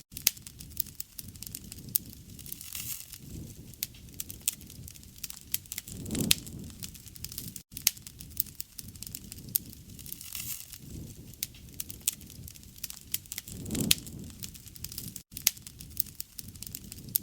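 Campfire crackling steadily, with many sharp pops and snaps from burning wood and soft low rushes of flame every few seconds. The sound cuts out for an instant twice.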